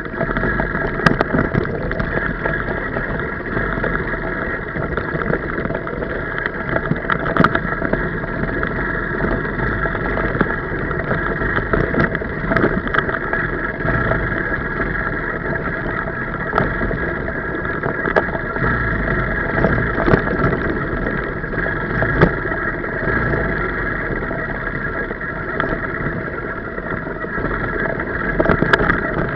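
Small four-stroke 125cc pit bike engine running steadily while the bike is ridden, with occasional short sharp knocks.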